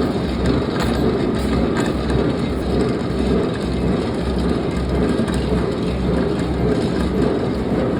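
Steady, loud industrial machinery rumble with a low, even throb repeating about twice a second.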